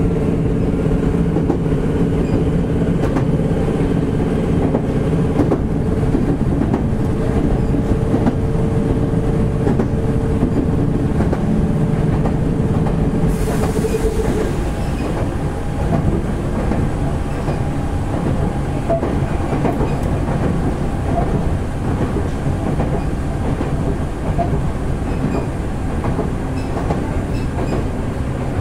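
Toyohashi Railway 1800 series electric train running, heard from inside the car: a steady motor hum that stops about halfway through, leaving the rumble of the wheels and a light clicking over the rail joints.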